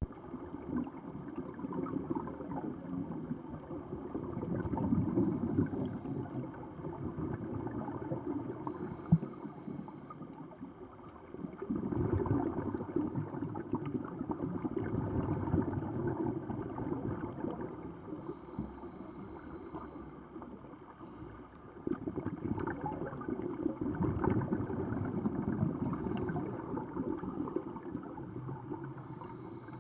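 Scuba diver breathing through a regulator underwater: exhaled bubbles rumble and gurgle for several seconds at a time, alternating with a short high hiss of inhalation, about three breath cycles ten seconds apart.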